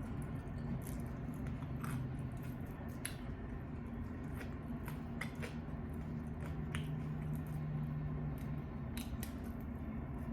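Close-up eating sounds of chicken wings being chewed, with irregular sharp crunchy clicks and wet mouth noises. A steady low hum runs underneath.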